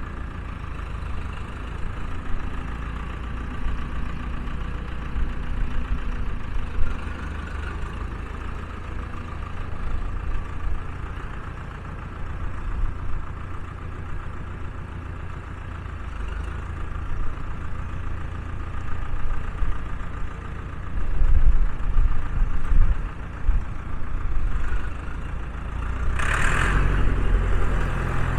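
Massey Ferguson 285 tractor engine running steadily, its loudness swelling and easing at times. Near the end there is a brief rushing noise.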